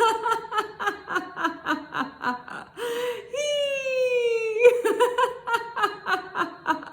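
A woman doing a laughter-exercise "hee" laugh that imitates a hose spraying. She holds a long high "heeee" that slides slightly down in pitch, then breaks into a quick run of "hee-hee-hee" pulses, about seven a second. After a breath about three seconds in, she does it again.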